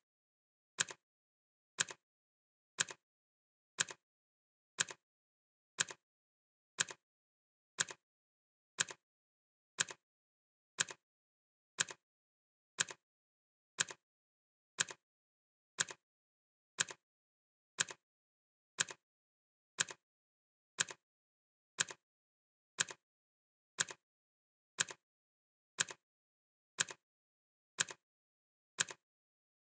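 Clock ticking sound effect: a crisp tick once a second, steady and even, with silence between ticks.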